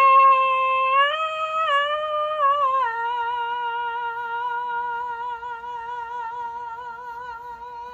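A woman singing unaccompanied, holding a long wordless note with vibrato. About three seconds in she steps down to a lower note and holds it, slowly fading.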